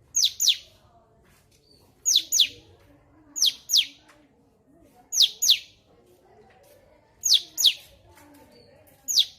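Cucak cungkok songbird calling: sharp, high notes that sweep quickly downward, given in pairs about every second and a half.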